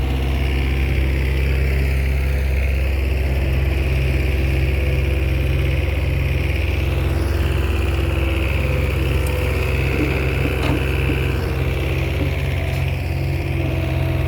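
Komatsu bulldozer's diesel engine running with a steady low drone, with a brief knock about ten and a half seconds in.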